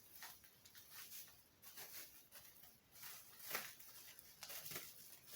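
Faint, scattered rustles and light clicks of packaging being handled and pulled open by hand.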